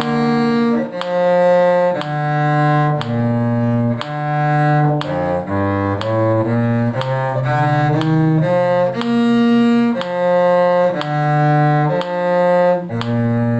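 A bowed string instrument playing a simple low-register exercise tune. Most notes are held for about a second, with a run of quicker, shorter notes in the middle.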